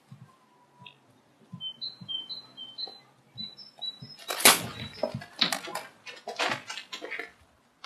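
A bird giving a run of short high chirps, two or three a second, alternating between two pitches. About halfway through, loud rustling, flapping bursts take over for about three seconds.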